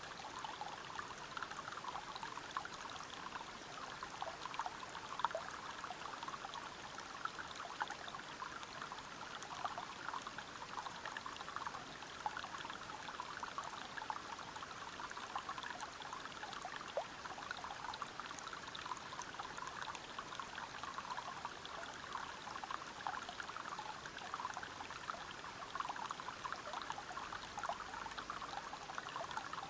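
River water pouring and splashing over rocks at a small waterfall, a steady rush with many small splashes.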